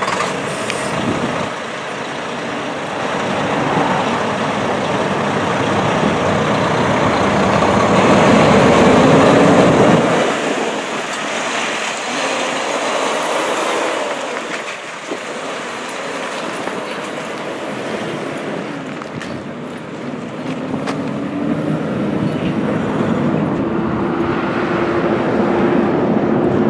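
2010 International dump truck's diesel engine running, its pitch climbing to a peak about 8 to 10 seconds in, dropping off sharply, then rising slowly again toward the end.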